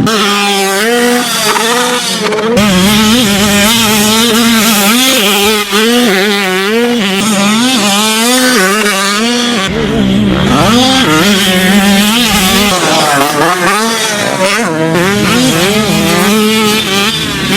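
250 cc two-stroke motocross bike engine at hard throttle, its pitch climbing and dropping again and again as the rider works the throttle and gears. There is a dip and a fresh climb about ten seconds in.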